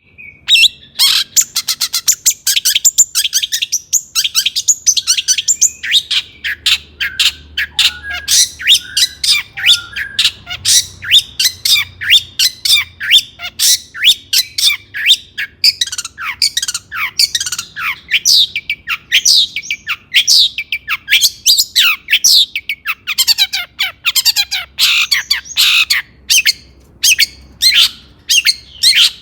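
Long-tailed shrike (cendet) singing a fast, unbroken stream of harsh, scratchy calls and sharp downslurred notes, several a second.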